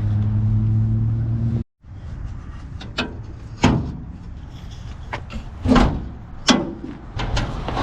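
Hood latch and hinges of a 1969 Oldsmobile Cutlass being worked as the hood is released and lifted: a handful of sharp metallic clicks and clunks spread over several seconds. A steady low hum plays for the first second and a half and then cuts off abruptly.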